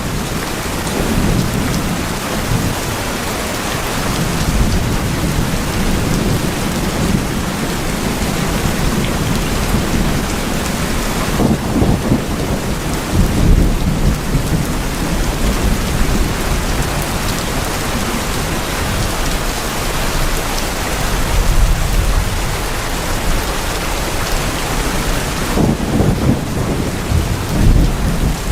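Steady heavy rain falling on tin roofs, with thunder low underneath that swells louder a couple of times.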